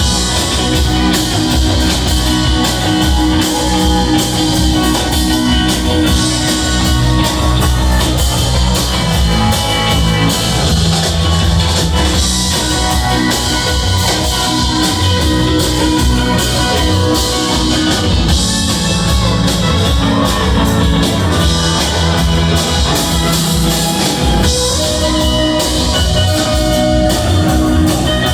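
Live rock band playing an extended jam: electric guitars over a steady drum kit beat, loud and continuous, recorded from the audience.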